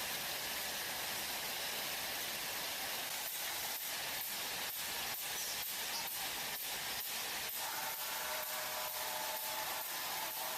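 Steady hiss-like noise, with brief dips in level from about three seconds in and faint steady tones entering near the end.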